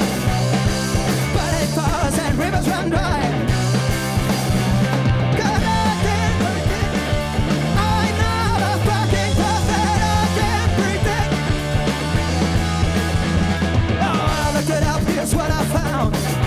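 Live punk rock band playing loud, with distorted guitars, bass and drums, and a voice over them.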